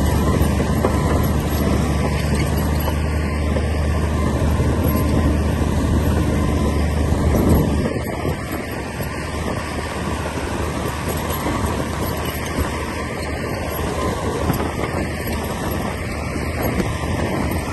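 Komatsu D60P bulldozer's diesel engine running with a steady drone. A little under halfway through, the steady note drops away and the sound becomes a rougher, slightly quieter rumble.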